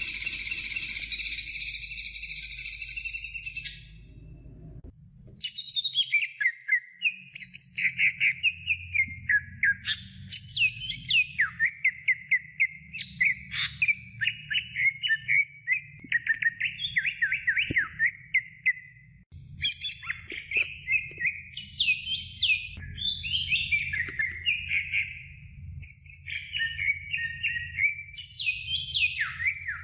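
Cucak hijau (green leafbird) singing: a long run of fast, varied, twittering phrases with quick up-and-down notes. It opens with a loud, harsh buzzing stretch of about three and a half seconds, then the chattering song starts about five seconds in and keeps going.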